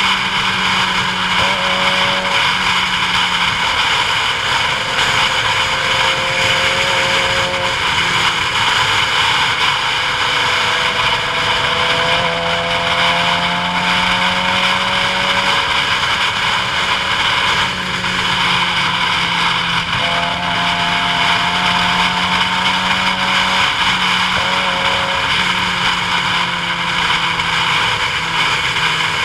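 A road vehicle running steadily downhill, with a loud continuous rush of road and wind noise. Its engine tones drop or jump in pitch several times, as with changes in gear or speed.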